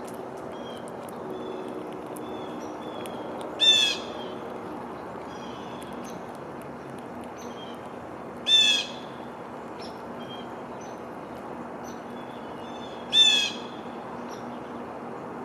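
A bird at the feeder gives a loud, harsh call three times, about every four to five seconds, with faint chirps of other small birds between the calls.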